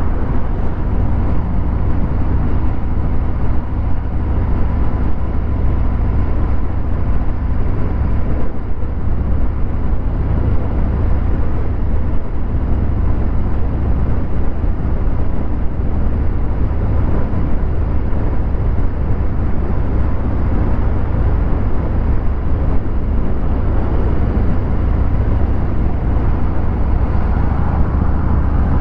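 Harley-Davidson Fat Bob 114's Milwaukee-Eight V-twin running steadily through a Vance & Hines Hi-Output 2-into-1 exhaust, with a deep, even exhaust note.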